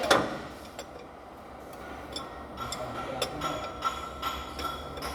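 Hand tools clinking against metal engine parts: a sharp ringing clink right at the start, then a run of irregular light ticks and clinks.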